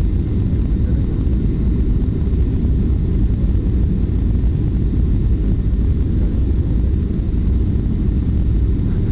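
Steady low rumble of a passenger airliner's engines and rushing air, heard from inside the cabin on the landing approach.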